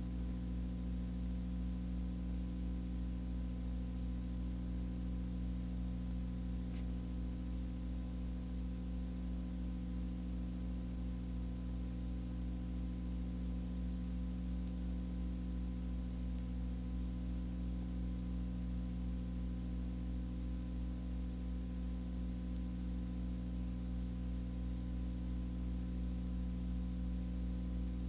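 A steady low hum made of several fixed tones, with a faint hiss over it, unchanging throughout.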